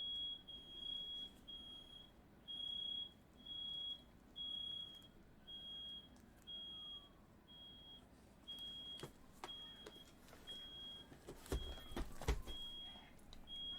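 Smoke alarm sounding a steady run of high-pitched beeps, set off by firework smoke in the room. A few sharp knocks come near the end.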